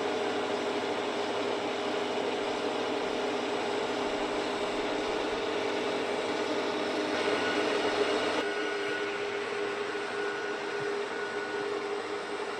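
Milling machine running with its spindle at 800 rpm and the feed engaged, the cutter taking a cut; a steady hum, louder and with a higher tone for a second or so about seven seconds in.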